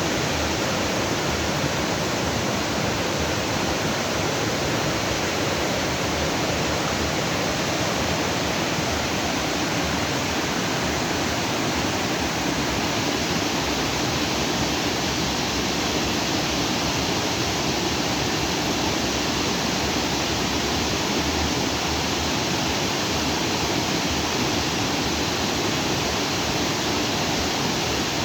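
Stream of water rushing steadily over rocks, a constant even wash of noise.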